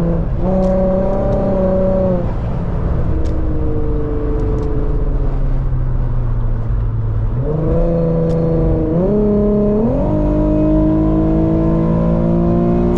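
Car engine pulling hard at highway speed: it holds a steady pitch, eases off about two seconds in, then climbs from about seven and a half seconds in. There is a quick dip near nine seconds as it changes gear, then it climbs again until it lets off at the end.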